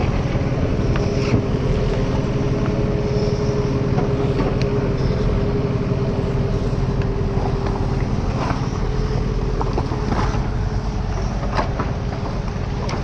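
Diesel engine of a backhoe loader running steadily under load, with a steady whine that fades about two-thirds of the way through and scattered short knocks.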